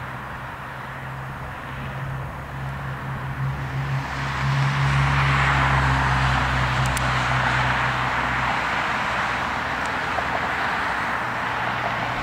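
A heavy vehicle driving past: a steady low engine hum, with engine and road noise that swells about four seconds in and then eases a little.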